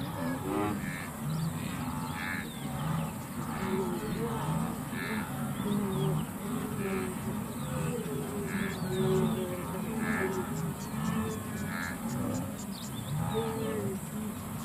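Wild birds calling over one another: short calls repeated about once a second, with lower wavering notes underneath.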